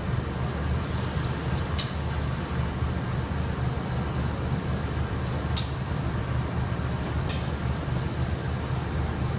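Passenger train running, a steady low rumble with four brief high hisses.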